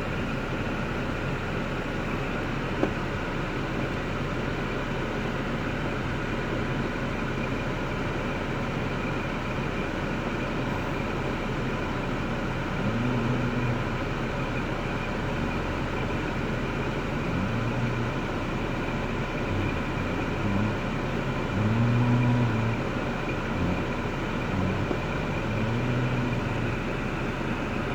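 Steady running of a 2005 Cadillac STS's 3.6-litre LY7 V6 at idle, with a single sharp click about three seconds in.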